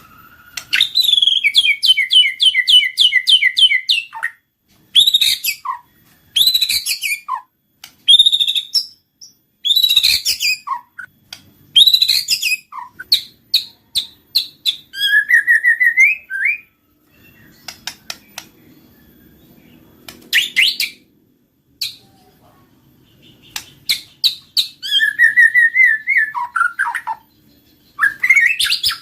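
White-rumped shama (murai batu) singing a varied song in loud phrases separated by short pauses: fast runs of repeated notes, slurred whistles sliding down in pitch, and sharp clicking notes.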